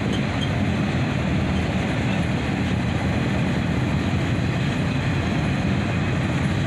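Norfolk Southern mixed manifest freight train rolling past: a steady low rumble of wheels on the rails.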